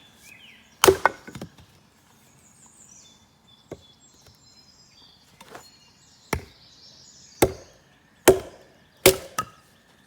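Wood being chopped: about ten sharp, irregular blows, three in quick succession about a second in and then single strokes roughly a second apart. Birds chirp faintly at the start.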